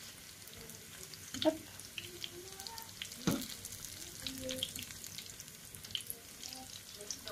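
Breadcrumb-coated Korean corn dogs frying in hot oil in a pan, with a steady sizzle and fine crackle. Two sharper knocks, about a second and a half and three seconds in, come from a metal fork turning them against the pan.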